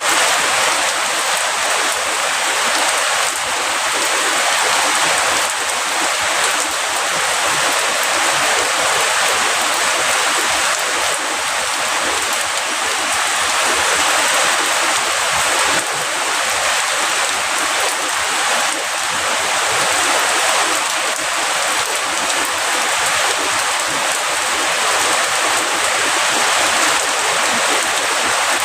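Heavy rain falling steadily, a dense even hiss with no distinct thunder claps.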